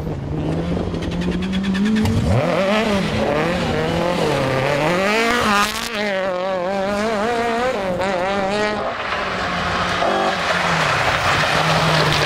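Rally car engine at full attack on a stage, the revs rising and falling rapidly as the driver works the throttle and gears.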